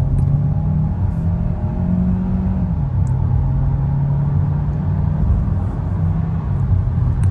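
Kia Sorento Hybrid's turbocharged four-cylinder engine pulling at full throttle, heard from inside the cabin over steady road and tyre noise. The engine note climbs, falls back once about three seconds in as the automatic gearbox upshifts, then keeps pulling.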